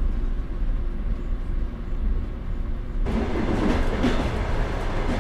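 Passenger train on the BAM railway running along: a steady low rumble that, about three seconds in, switches to a louder, brighter rattle with a few knocks.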